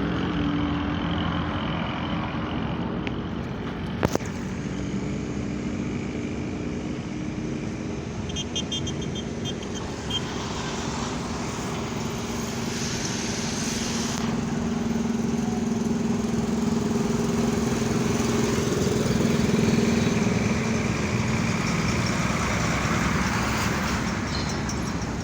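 Heavy truck engine running steadily, with road noise. There is a sharp click about four seconds in, and the engine grows louder from about fifteen to twenty seconds in.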